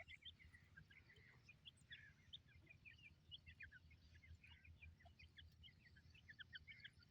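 Faint, busy chirping of birds: many short, high notes overlapping from several birds, over a low steady hum.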